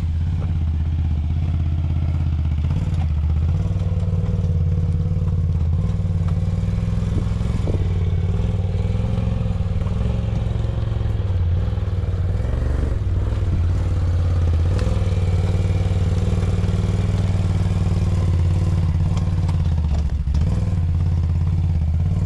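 Quad (ATV) engine running steadily at a low, even speed, with a few light knocks and clatters over it.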